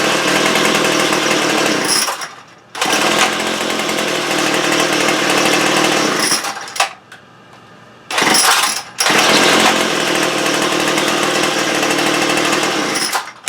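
Small two-stroke engine of a cheap handheld power tool running loud at high speed. It cuts out briefly about two seconds in and again for over a second mid-way, then picks back up, and stops near the end.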